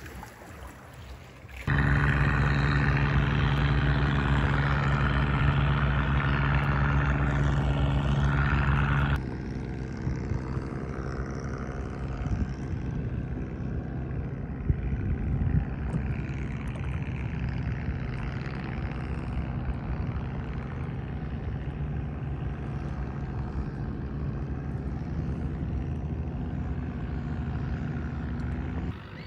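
Boat engine running steadily. A loud, even-pitched stretch starts suddenly about two seconds in, switches abruptly near nine seconds to a quieter, rougher running, and cuts off suddenly near the end.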